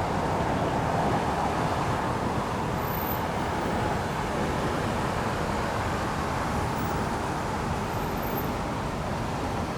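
Steady road traffic noise, a continuous rush of passing vehicles that eases slightly toward the end.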